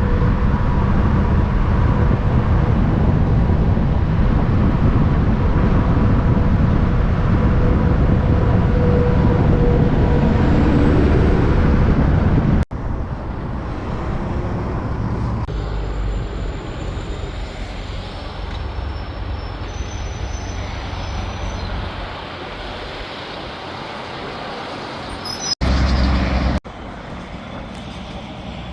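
Big-rig diesel engines running loud on the road, over traffic noise. The sound cuts off abruptly about halfway through into quieter road traffic, and near the end a second cut brings a short loud stretch of engine noise.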